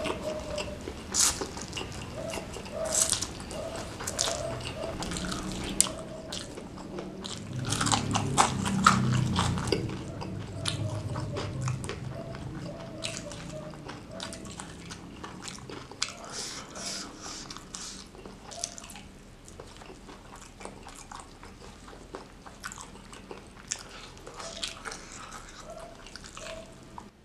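Close-miked mukbang eating sounds: a mouthful of spicy fried noodles, then smashed fried chicken bitten and chewed, with many small wet mouth clicks and crunches. The chewing is loudest about eight to ten seconds in.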